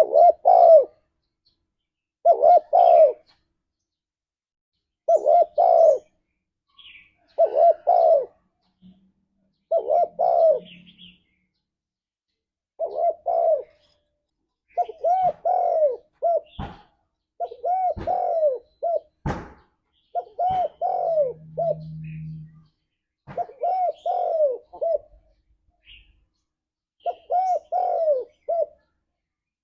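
Spotted dove cooing: short phrases of a few mellow notes, repeated every couple of seconds and coming closer together about halfway through. A few sharp clicks and a brief low hum sound among the calls.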